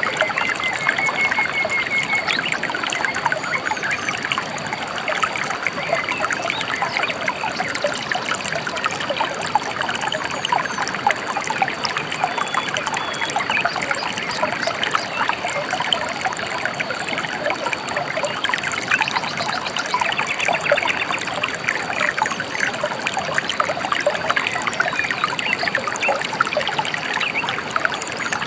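Gentle river flowing, a steady babbling trickle of water, with a faint short bird whistle about a second in.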